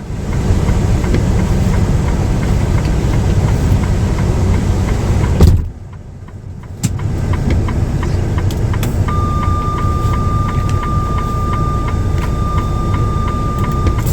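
Truck engine running with a steady low rumble. It drops away for about a second around the middle, then comes back. In the last few seconds a thin, steady high tone sits over it, with faint regular ticks.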